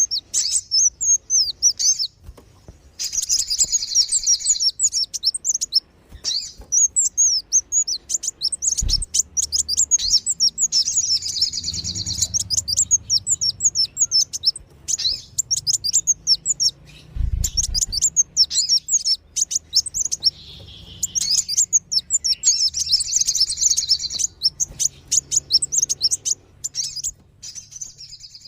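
Sunbirds (kolibri wulung and sogon) twittering in a bird-lure recording: rapid, high-pitched chirps and trills in dense bursts, broken by short pauses. A couple of faint low thuds come through in the background.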